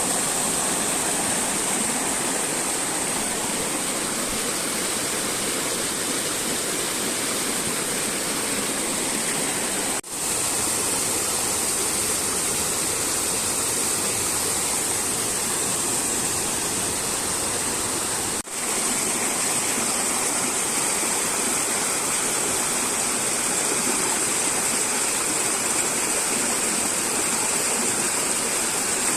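Flowing water rushing steadily, with no single splash standing out. The sound breaks off for an instant twice, about ten and eighteen seconds in.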